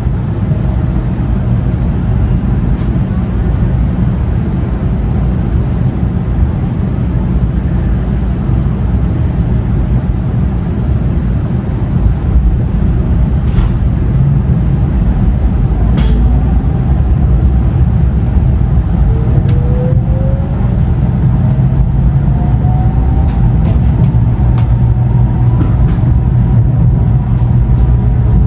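Tokaido Shinkansen train running, heard from inside the passenger car: a steady low rumble, with a whine that rises in pitch over the last ten seconds or so as the train gathers speed.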